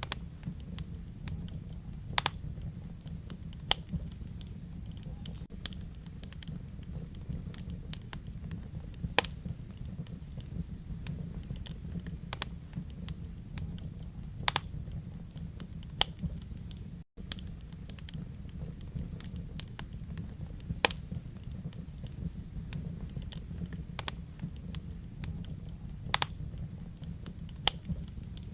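Wood fire burning in a fireplace: a steady low rumble of flame with irregular sharp crackles and pops, a few louder snaps among them. The sound drops out for a split second about two-thirds of the way through.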